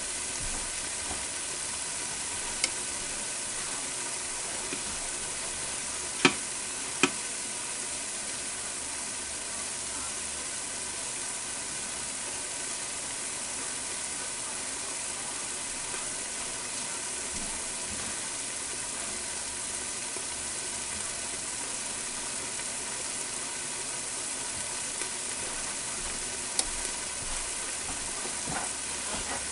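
Roast beef and flour frying in oil in an Instant Pot on its sauté setting: a steady sizzle. A few sharp clicks come about 3, 6 and 7 seconds in and again near the end.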